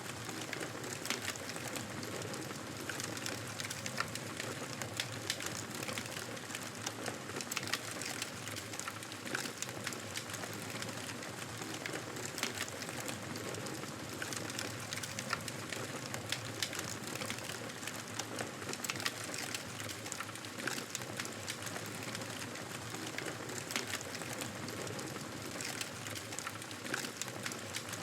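Wood fire burning in a fireplace: a steady soft rush of flames with frequent sharp crackles and pops from the burning logs.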